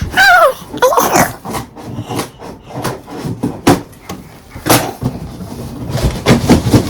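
Knocks, clicks and clatter of things being handled, with a short, high, falling squeal near the start and again about a second in.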